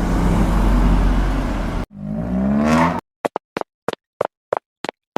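Car engine running and revving in two short clips, each cut off abruptly, the second rising in pitch. Then about nine short, sharp clicks in otherwise dead silence.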